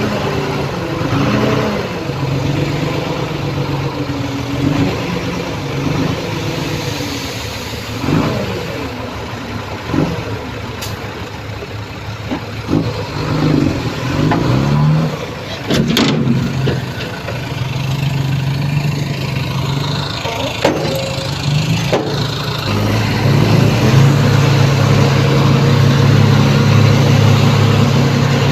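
Diesel engines of heavy earthmoving machinery working, the engine note rising and falling under load, with a few sharp metallic clanks. Near the end it settles into a steadier, louder run.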